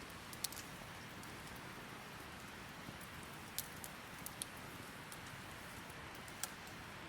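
Wood fire burning with a steady soft hiss and occasional sharp crackling pops: one about half a second in, a cluster of three between three and a half and four and a half seconds in, and one more near six and a half seconds.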